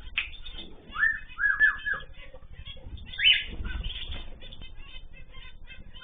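Ornamental cage birds chirping and calling. There is a quick run of short calls that rise and fall in pitch about a second in and a louder call near the middle, over steady small chirps.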